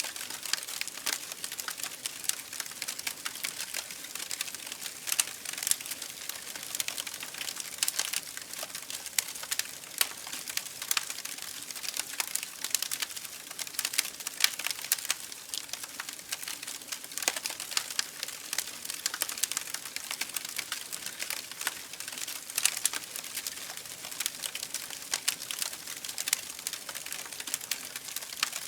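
Campfire burning with a steady, dense crackle of many small sharp pops.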